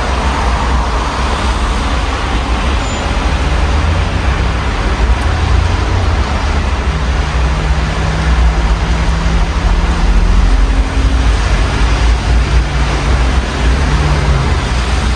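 Steady rain through an open window over city street traffic, with a motor vehicle's low engine rumble and hum holding steady through most of it.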